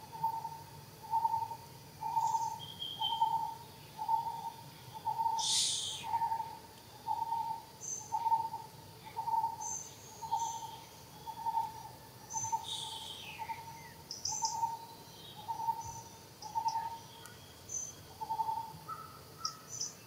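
A bird repeating a single hooting note about once a second, stopping shortly before the end, with short, higher chirps from other birds scattered over it.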